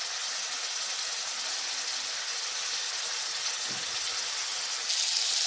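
Tomato masala sizzling in oil and a little water in a kadhai, a steady hiss that gets louder near the end.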